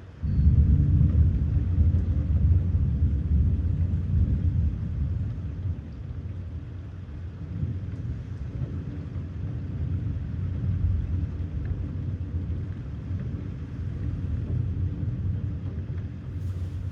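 Thunder: a deep rumble that starts suddenly and rolls on, loudest over the first six seconds, then keeps rumbling at a lower level.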